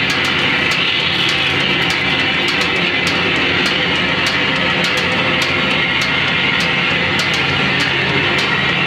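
Live noise music: a loud, dense, unbroken wall of distorted noise, with sharp clicks or hits landing irregularly a few times a second.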